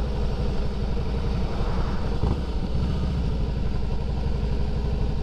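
Harley-Davidson Fat Boy's V-twin engine running steadily, its beat unbroken through the ride.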